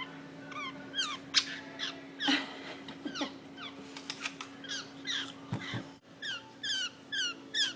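Fledgling bird's begging calls: short, high, down-slurred cheeps, scattered at first and then repeated about three times a second. It is a hungry young bird demanding food.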